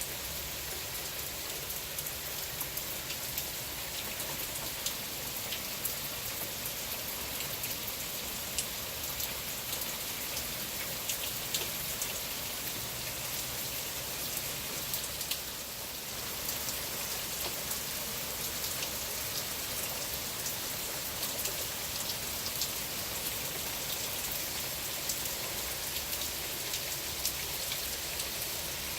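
Steady rain falling, a constant hiss with many separate drops ticking on a hard surface.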